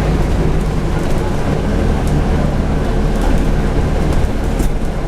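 Scania N250UD double-decker bus running under way: its five-cylinder diesel engine and drivetrain give a loud, steady low rumble, with a few light rattles about four and a half seconds in.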